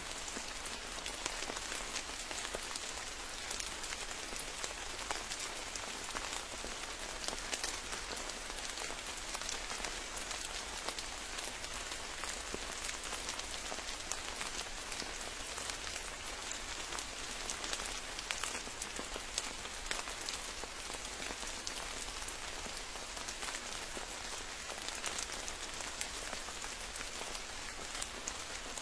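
Steady rain falling on foliage and ground: a constant hiss thick with the small taps of individual drops.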